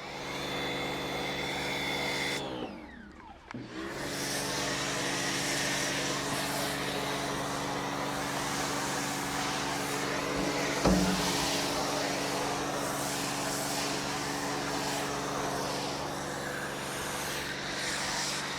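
Pressure washer running, a steady motor hum under the hiss of its spray. About three seconds in the motor winds down and starts up again. A single thump comes near the middle.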